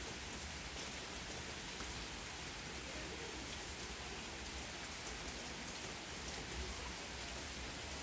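Steady rain falling on garden plants and wet paving stones: an even hiss with scattered ticks of single drops.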